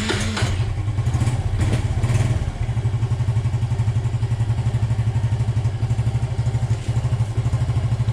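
Suzuki Smash 115 single-cylinder four-stroke motorcycle engine starting on the electric starter and running at a steady idle with an even, rapid low pulse.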